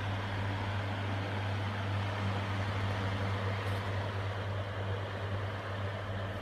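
KHIND/Morgan 10-inch exhaust fan running steadily: a low, even motor hum under a rush of air.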